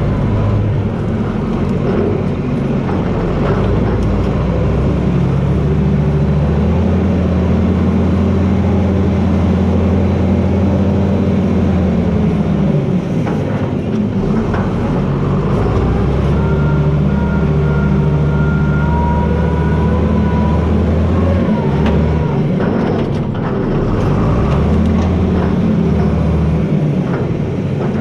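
John Deere 4320 tractor's six-cylinder diesel engine running steadily under load, its note dropping and picking back up several times as the blade pushes. A faint thin whine runs above the engine for several seconds in the second half.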